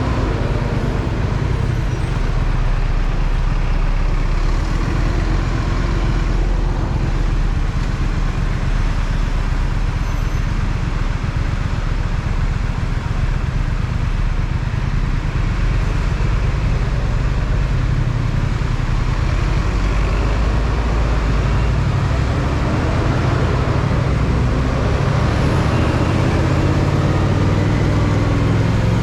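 Triumph Speed Twin's parallel-twin engine running steadily under way, its pitch rising and falling a few times with the throttle, over a constant rush of wind and road noise.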